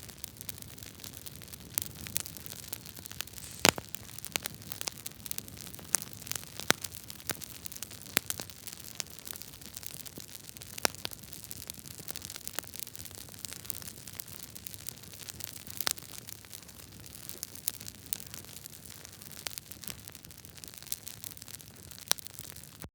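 Wood fire burning in a fireplace, logs crackling: irregular sharp pops over a steady hiss, with one louder pop about four seconds in.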